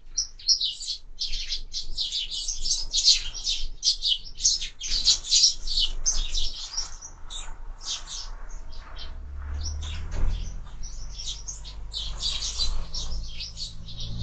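A flock of sparrows chirping rapidly and continuously, many short high chirps overlapping, busiest in the first half. A low rumble rises under the chirping about two thirds of the way through.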